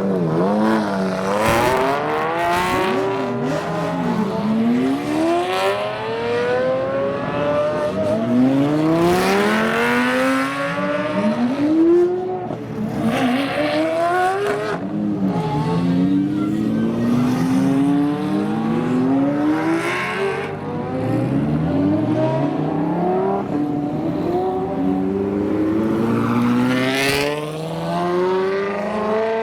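Supercar engines accelerating hard one after another, each rising in pitch through the gears as it pulls away and passes, often with several cars overlapping.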